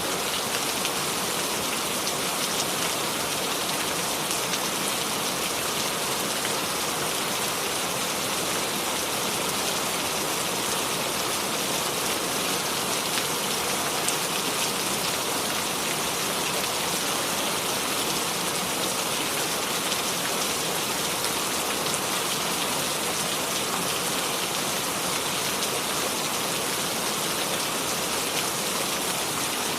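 Steady rain falling without thunder: an even, unbroken hiss of many drops, with faint scattered drop ticks.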